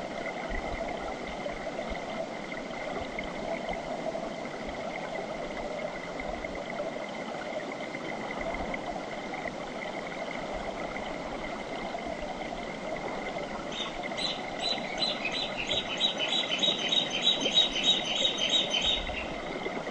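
Mountain river flowing with a steady rush of water. In the last third a bird calls over it, a quick run of short, high, repeated notes about three a second, lasting some five seconds.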